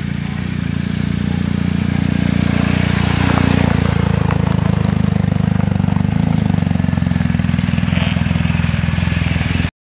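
BMW R1250 GS Adventure's boxer-twin engine running steadily, getting a little louder over the first couple of seconds. It cuts off abruptly near the end.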